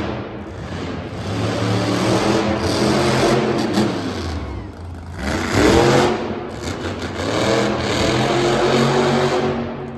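Monster truck engine revving hard in repeated surges, the pitch climbing sharply about halfway through and falling away near the end.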